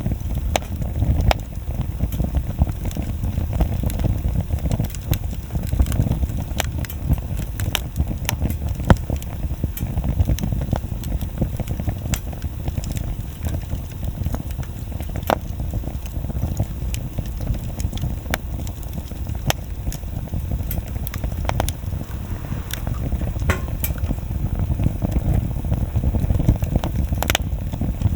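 Wood bonfire burning: a steady low rumble of flame with frequent sharp crackles and pops at irregular moments.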